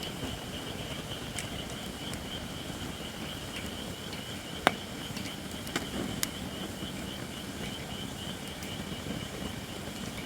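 White oak (shirakashi) firewood burning in an open fire pit, a low steady crackle with a few sharp pops about halfway through, the loudest first. A steady high-pitched sound sits over the fire.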